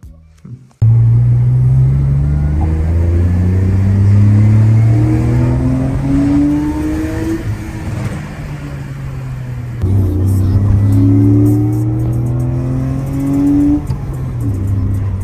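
BMW M54B25 straight-six fitted with an N54 intake manifold, under hard acceleration in two long pulls, its engine note rising steadily in each. The sound starts abruptly about a second in, eases around eight seconds, and the second pull starts suddenly near the ten-second mark.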